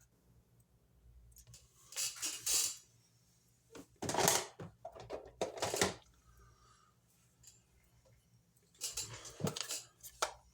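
Small craft supplies being handled and set down on a desk: clicks and clatter in three short bursts.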